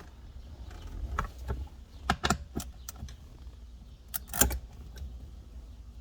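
Irregular metallic clicks and clinks of a hand socket wrench loosening a 10 mm nut, with the loudest clinks at about two and four and a half seconds in.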